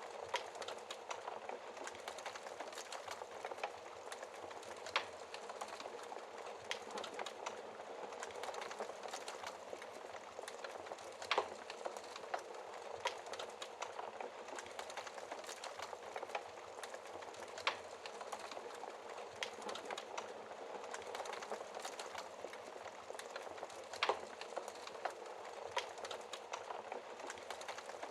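Wood fire burning in a fireplace behind a glass screen: a steady crackle and hiss with sharp, louder pops every few seconds.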